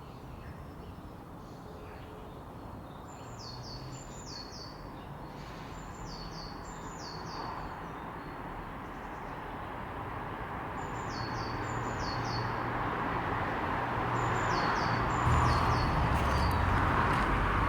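A small songbird calling in short, high, falling notes, two or three at a time, repeated every few seconds. Behind it is a steady outdoor rush that grows louder toward the end, with a low rumble joining in near the end.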